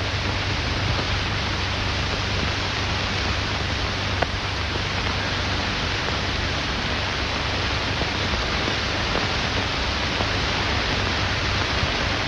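Steady hiss with a low hum underneath, the surface noise of an old optical film soundtrack, with a single faint click about four seconds in.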